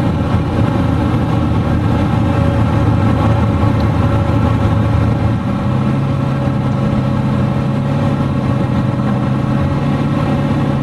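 Twin-turbo 472 Mopar big-block V8 running steadily while cruising, heard from inside the car's cabin; its note shifts about halfway through.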